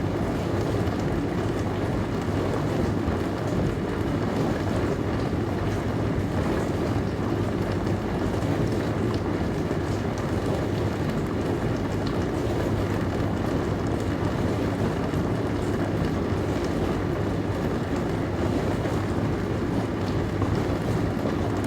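Dishwasher running mid-cycle: a steady, unbroken rush of water spray over a low hum from the pump.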